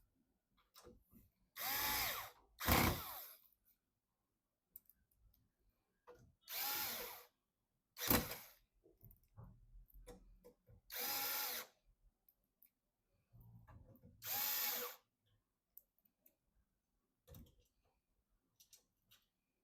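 Handheld power screwdriver driving screws in six short runs, each about a second long. The motor's whine rises and falls in pitch with every run, and faint clicks of handling come between the runs.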